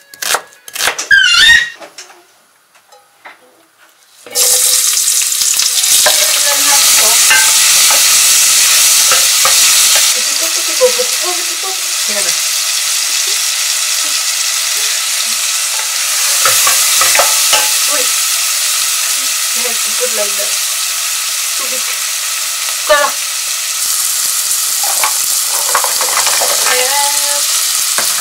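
Chopped onion and carrot sizzling as they fry in a pot on a gas hob, stirred with a wooden spoon. The sizzle starts suddenly about four seconds in and then runs on steadily.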